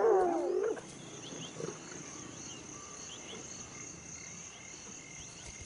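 Crickets chirring steadily in a high, even band, with a few faint chirps. A wild animal's call trails off about a second in, leaving the insects.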